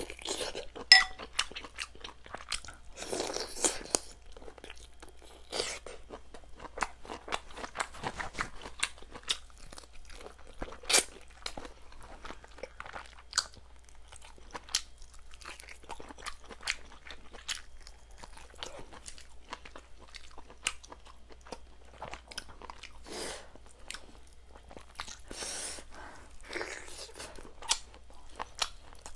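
Close-up chewing and crunching of chicken rib pieces, with irregular sharp cracks as small bones and skin are bitten, some louder bites standing out. A steady low hum runs under it.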